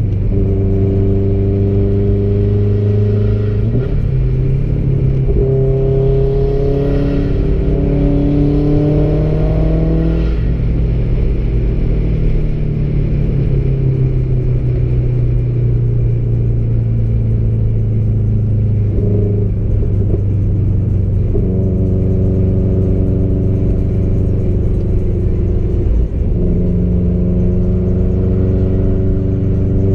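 Car engine and road rumble heard from inside the cabin while driving. The engine note climbs as the car accelerates, drops about ten seconds in, then holds steady at a cruise, with a few shifts in note later on as the throttle or gear changes.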